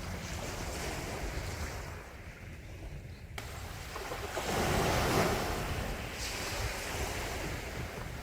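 Sea waves washing onto the shore, with one wave surging and breaking a little past halfway through, the loudest moment, before the wash settles back.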